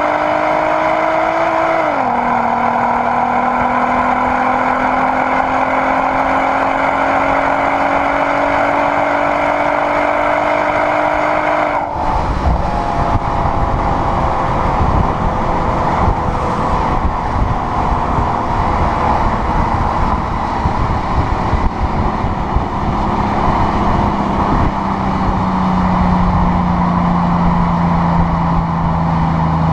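VW Sharan's R32 3.2 VR6 engine through a new exhaust with its flap open, pulling hard with a rising note, one upshift about two seconds in. About twelve seconds in the driver lifts off and the note falls slowly over a rougher exhaust rumble while the car coasts.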